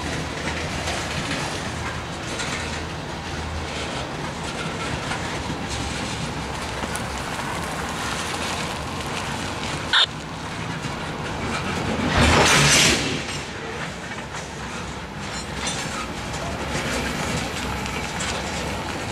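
Freight train of covered hopper cars rolling past close by, a steady rumble with the clickety-clack of wheels over the rail joints. About ten seconds in there is a brief sharp squeak, and a couple of seconds later a short, louder rushing noise, the loudest moment.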